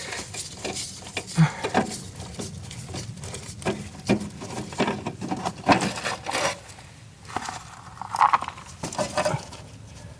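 Irregular clicks, taps and light metallic knocks of hand tools and parts being handled on a lawn mower, with no engine running.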